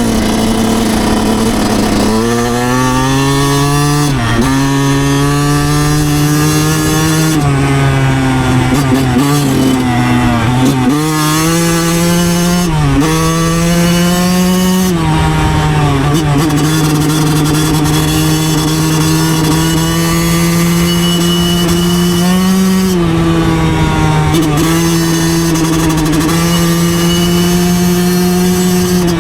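2009 Yamaha YZ125's 125cc two-stroke single-cylinder engine running under way, its revs dropping and climbing back several times in the first half, then holding steady with one brief rise near the end. Wind hiss runs underneath.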